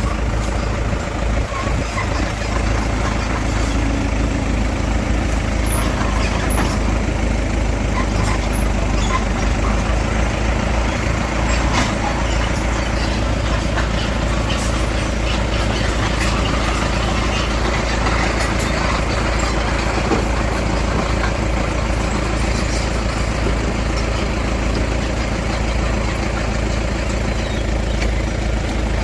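Heavy diesel engine of earthmoving machinery running steadily under load, with occasional sharp metallic clanks.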